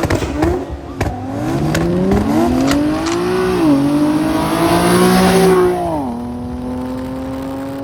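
A car engine accelerating hard through the gears. Its pitch climbs, drops at a shift about three and a half seconds in, climbs again and drops at a second shift about six seconds in, then holds nearly steady.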